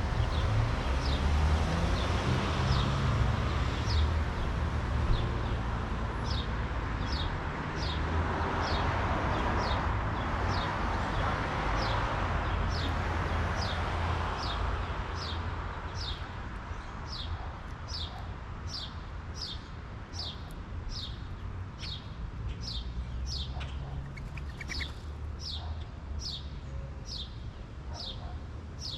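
A bird singing a long series of short whistled notes, each sliding downward, repeated about one to two times a second without a break, over a low background rumble.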